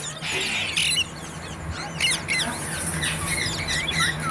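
Green parrot calling: a harsh squawk in the first second, then a rapid string of short chirps and whistles. A steady low hum runs underneath.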